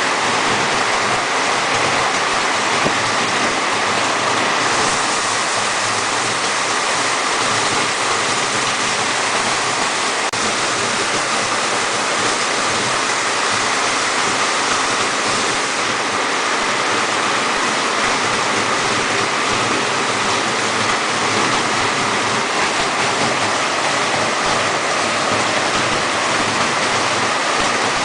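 Steady, loud rush of heavily flowing storm water, with no let-up.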